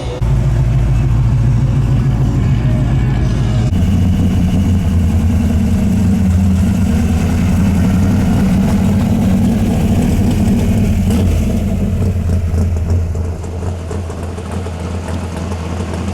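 A car's engine running loudly with a deep rumble, its pitch stepping up about four seconds in and the level dropping near the end.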